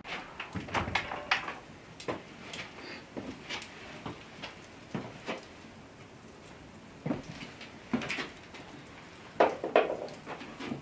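A series of irregular light knocks and clicks, as of objects being handled and set down, with a cluster about a second in and louder knocks near the end.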